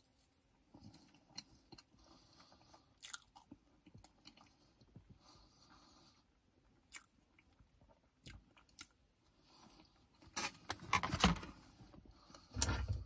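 A person biting into and chewing a small cream cake: soft, wet mouth sounds with scattered light crunches and clicks. A louder stretch of sound comes about ten seconds in.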